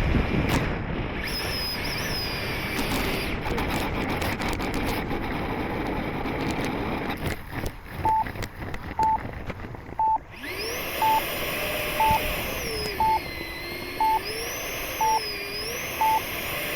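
Steady rushing noise of the electric ducted fan jet, with rain, for the first half. Then a radio transmitter's flight timer beeps once a second, counting down the last seconds. After the first few beeps the rushing stops and a thinner whine slides up and down in pitch.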